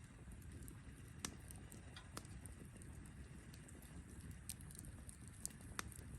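Wood campfire crackling: scattered sharp pops, about five over a few seconds, over a low steady rumble.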